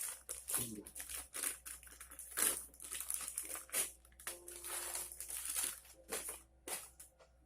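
Irregular crinkling and rustling, like material being crumpled or handled, in quick uneven bursts that thin out toward the end.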